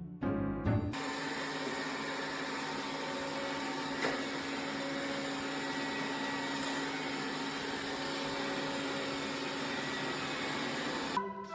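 Steady whirring of an electric appliance motor, starting about a second in and cutting off near the end.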